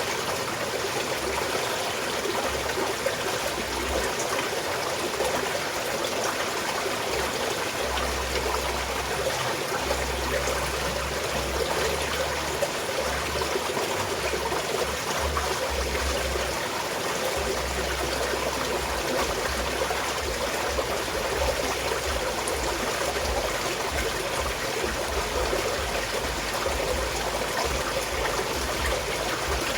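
Small mountain stream flowing and trickling steadily over rocks.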